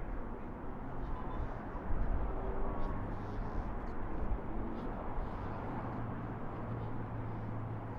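Superbike engine idling amid outdoor background noise, with a steady low hum setting in about three seconds in.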